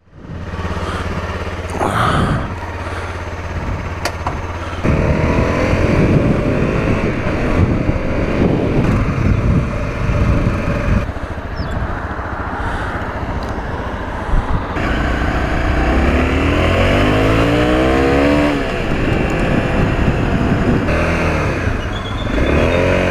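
Honda CRF250L's single-cylinder four-stroke engine running under way, its revs rising and falling through the gears, with one clear rev climb in the second half.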